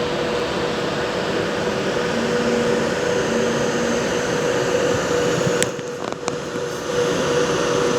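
Class 57 diesel-electric locomotive idling: a steady mechanical hum with a constant whine over it. A few sharp clicks come about six seconds in.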